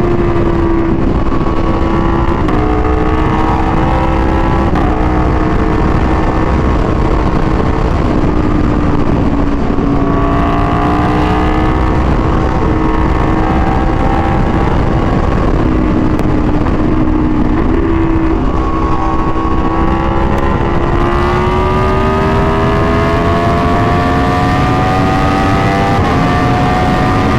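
Aprilia Tuono V4 1100's V4 engine through an SC-Project exhaust, under way on the road: the engine note holds and shifts in pitch in small steps, then climbs steadily in revs near the end.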